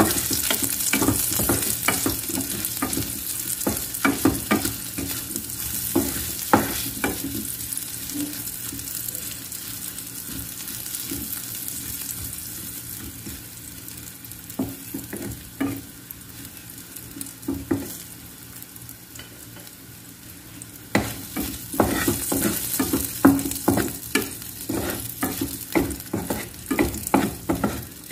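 Strips of food sizzling in oil in a pan, stirred with a wooden spatula that knocks and scrapes against the pan. The stirring comes in two busy spells, at the start and again in the last several seconds, and the sizzle is quieter in between.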